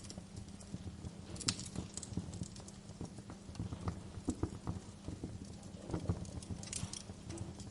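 Wood fire crackling in a fireplace: irregular sharp pops and snaps over a steady low rumble of the burning fire, with a louder pop about a second and a half in.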